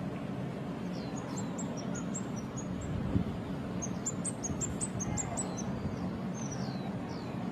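A shrike singing: two quick runs of short high chirps, with single falling slurred notes between them, over a steady low background hum.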